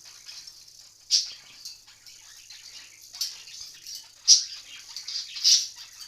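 Blue-and-gold macaw in its cage: faint scratching and clicking throughout, with four short, sharp noises, the loudest about a second in and about four seconds in.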